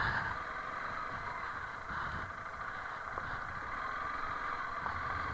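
Honda CRF300L Rally's single-cylinder engine running steadily at low speed on a rough dirt track.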